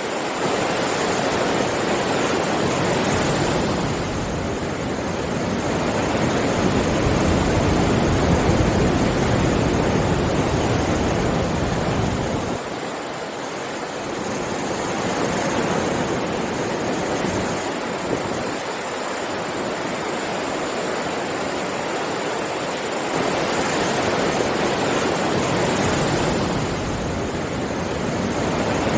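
Sea surf breaking and washing on a shore: a continuous rushing that swells and eases every few seconds, loudest about eight seconds in and dipping briefly around thirteen seconds.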